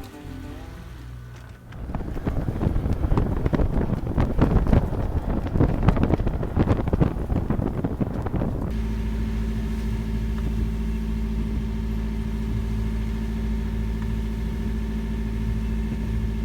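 Wind buffeting the microphone with a crackling, rushing noise, then an abrupt change about nine seconds in to the steady drone of the yacht's diesel engine running at constant speed.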